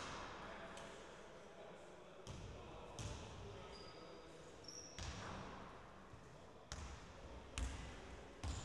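Basketball bouncing on an indoor court during play: irregular thuds every second or two. A few short high squeaks come in near the middle.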